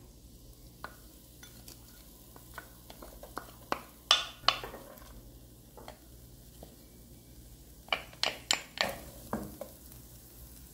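Diced onion and garlic frying in olive oil in a nonstick pan with a faint sizzle, while a wooden spoon stirs and scrapes against the pan in clusters of sharp clicks, about four seconds in and again near the end.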